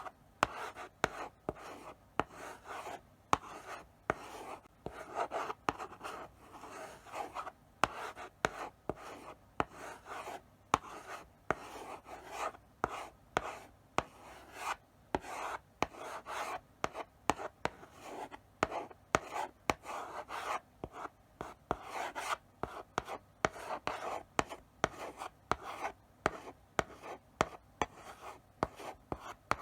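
Chalk writing slowly on a blackboard: a steady run of short scratching strokes, broken by sharp taps where the chalk strikes the board.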